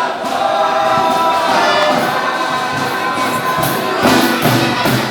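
Folia de Reis troupe singing a folk devotional song in chorus, with a tambourine beating along; the drumming grows more prominent near the end.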